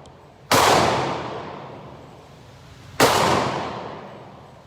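Two gunshots about two and a half seconds apart, each sharp crack followed by a long fading ring of reverberation.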